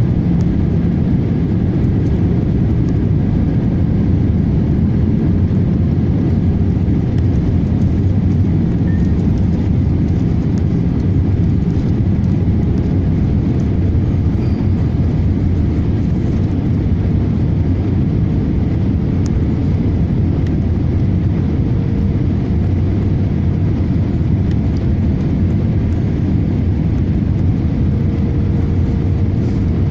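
Steady cabin noise inside an Airbus A318 airliner: engine and airflow noise, heaviest in the low range and unchanging.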